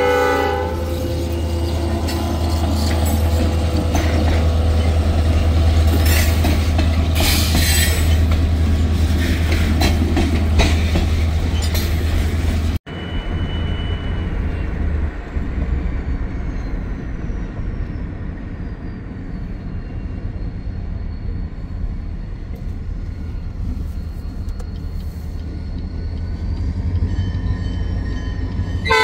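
Diesel freight train passing close by: a horn blast ends in the first moment, then the locomotive's deep engine rumble and the rolling railcars carry on loudly for about 13 seconds. It then cuts off suddenly to a quieter steady road noise from inside a moving car.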